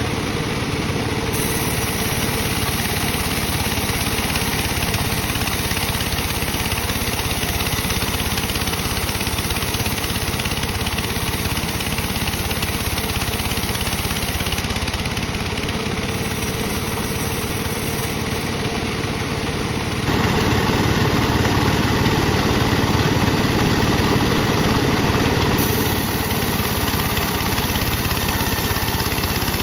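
Sawmill bandsaw running steadily while slicing dry teak wood, a continuous loud machine noise that gets louder about twenty seconds in.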